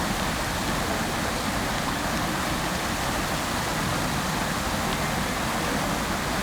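Outdoor garden fountain running: a continuous, even rush of water jets falling and splashing into the basin.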